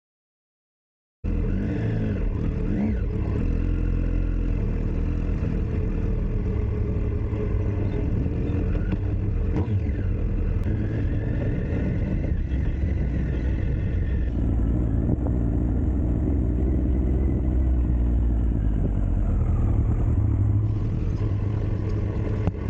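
Motorcycle ridden along a road: the engine runs steadily under a constant rush of noise, its pitch drifting gently up and down with speed. It cuts in suddenly about a second in, after a brief silence.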